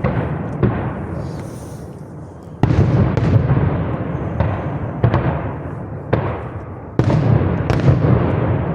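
Fireworks bursting overhead: sharp bangs about every second, each trailing off in a long rolling echo, with a short lull about two seconds in before a fresh volley.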